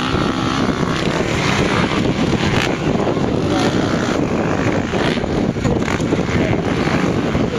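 Motocross bikes' engines running on a dirt track, revving steadily and continuously, with wind buffeting the microphone.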